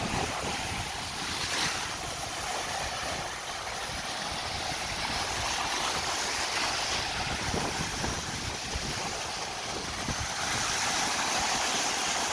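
Sea waves washing onto a beach, a steady hiss of surf that swells and eases, with wind buffeting the microphone.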